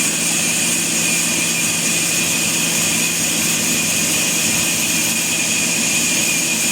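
Sawmill machinery running steadily, an even mechanical hum with a constant high whine over it.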